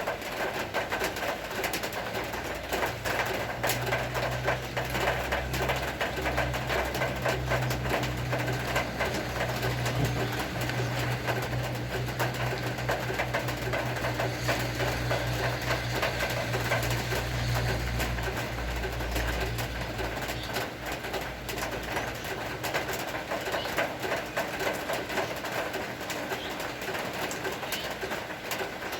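Steady rain falling, an even patter throughout, with doves cooing. A low steady hum comes in a few seconds in and fades out about three-quarters of the way through.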